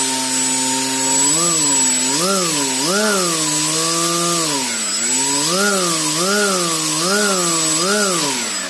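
Brushless-motor table fan running: a steady rush of air, with a pitched hum over it that swoops up and down in pitch about once a second.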